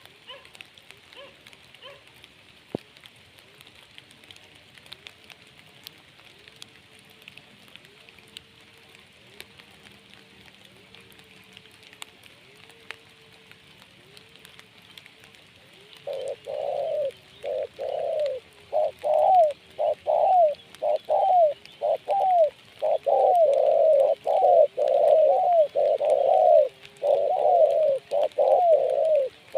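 Spotted dove cooing. Soft, faint coos repeat through the first half, then about halfway through loud, close coos start in a quick unbroken run. A faint steady hiss lies underneath.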